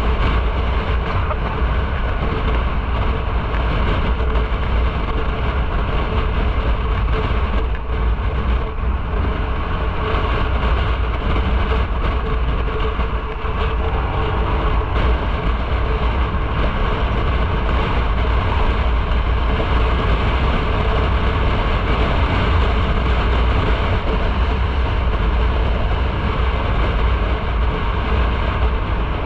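Motorcycle riding at steady speed: constant wind rush and road noise over the engine, with heavy low buffeting on the microphone.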